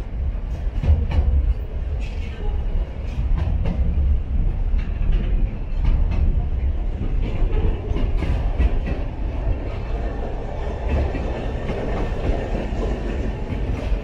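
Container freight train passing: flat wagons loaded with shipping containers roll by with a steady low rumble and irregular sharp clacks as the wheels cross rail joints. About halfway through, a G-class diesel-electric locomotive placed mid-train goes by in the consist.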